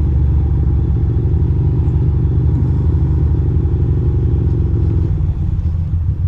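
2006 Ducati Monster 620's air-cooled L-twin engine running steadily, a low pulsing rumble with no revving.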